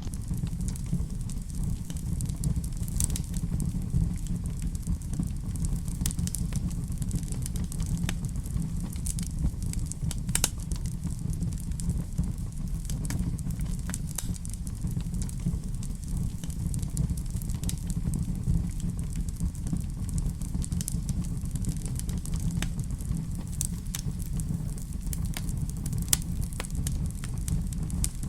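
Wood fire crackling in a fireplace: a steady low rumble with frequent small sharp pops and snaps scattered irregularly throughout.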